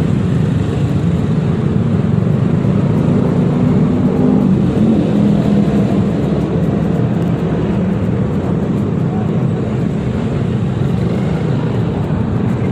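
Yamaha XMAX 300 scooter's single-cylinder engine running under way in traffic, with steady road and wind noise. The engine note rises slightly about four seconds in, then settles.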